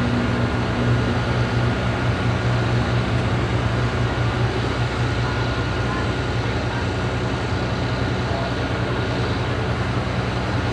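A large engine running steadily: a constant low drone with an even hum over it that holds unchanged throughout.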